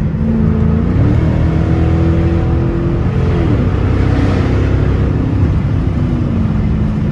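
Dodge Charger with a straight-piped exhaust, heard from inside the cabin while driving. The engine pitch rises about a second in, holds, drops back a little after three seconds, and settles lower near the end.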